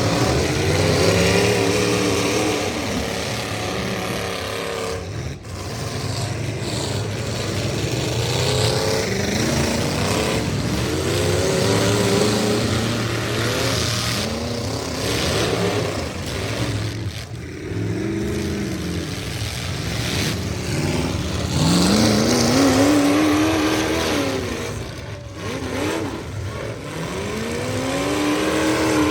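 Several demolition-derby pickup trucks' engines revved hard again and again, their pitch rising and falling and overlapping, over a steady low engine drone.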